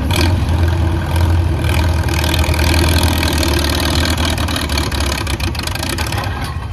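Antique Farmall tractor's engine running steadily and loudly under load as it pulls the weight sled, with a run of sharp ticks in the second half.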